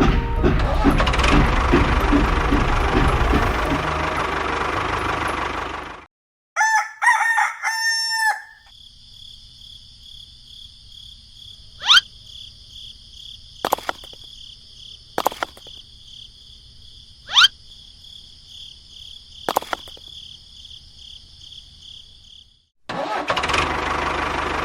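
A loud engine-like running noise cuts off sharply about six seconds in, and a rooster crows once. Then comes a quiet stretch with a steady high whine and five sharp clicks, before the loud noise returns near the end.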